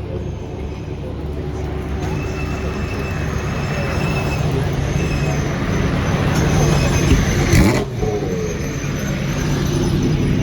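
Racing car engine accelerating, growing steadily louder. About three-quarters of the way through there is a sharp crack, and the engine note briefly drops and climbs again.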